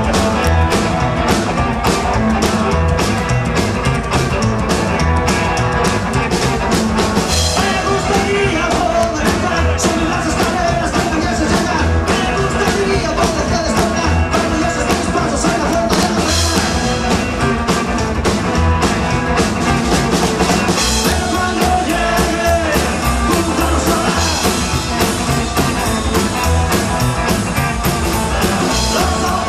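Rock song by a full band, with a steady drum beat and a singing voice.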